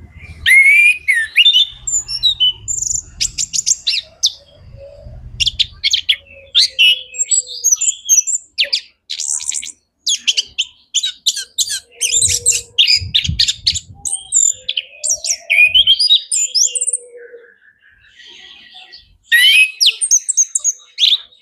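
Orange-headed thrush (anis kembang) singing a long, dense, varied song of rapid whistles, trills and sharp chips, with a short pause near the end before one more burst of song.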